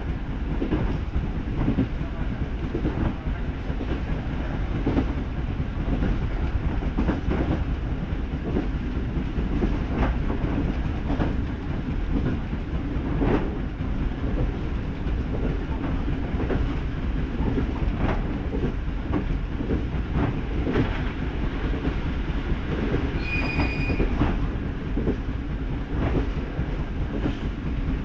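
Electric local train running at speed, heard from inside the passenger car: a steady rolling rumble with the wheels clicking over rail joints every second or two. A brief high-pitched tone sounds a little past three-quarters of the way through.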